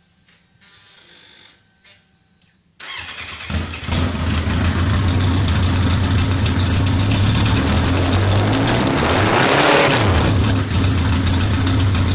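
A 2003 Kawasaki Z1000's inline-four engine starting about three seconds in and then running loud and steady at around 3,000 rpm through two short aftermarket 'Shorty' GP exhaust pipes, with a brief change in its note late on.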